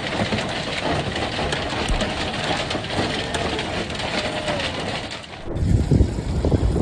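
Hail falling hard, a dense crackling patter of small hailstones hitting the ground and hard surfaces. About five and a half seconds in it cuts to gusty wind rumbling on the microphone.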